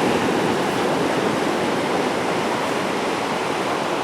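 Ocean surf: waves washing onto the shore in a steady rush of noise.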